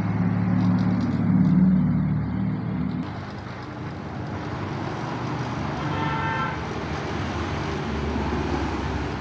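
A salvaged air-conditioner compressor, used as a vacuum pump, running with a steady low hum while it pulls a vacuum on the refrigerator's sealed system. The hum is louder for the first three seconds, then drops to a quieter steady level; a short tooting tone sounds about six seconds in.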